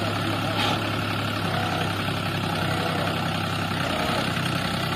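New Holland tractor's diesel engine running steadily at a low, even speed.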